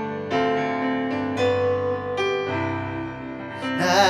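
Keyboard playing slow, sustained worship-song chords, with new chords struck about once a second. A singing voice comes in near the end.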